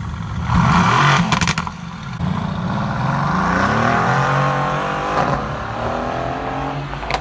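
A loud car engine revving, with a few sharp cracks, then accelerating with its pitch rising before it settles into a steadier drone.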